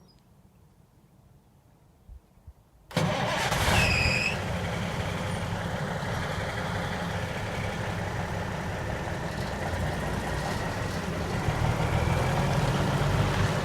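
1984 International S 2200 truck's 400 Cummins diesel engine starting about three seconds in after a couple of faint clicks, catching at once with a brief high-pitched squeal, then idling steadily.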